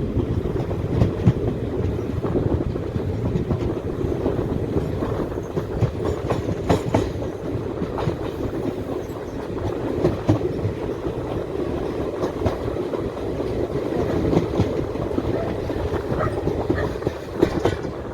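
Moving Indian Railways passenger train: the steady rumble of the coach, with wheels clacking over the rail joints again and again.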